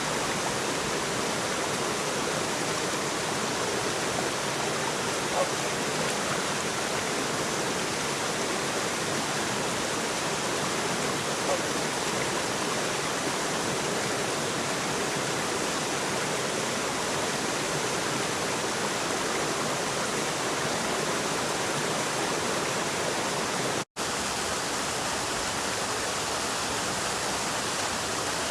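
A steady, even rushing of water, unchanging throughout, with a split-second cut-out near the end.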